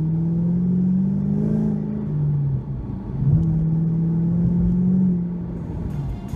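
Ford Mustang V8 with its mufflers fitted, accelerating on the road: the engine note climbs, breaks at a gear change about two and a half seconds in, climbs again, then eases off near the end.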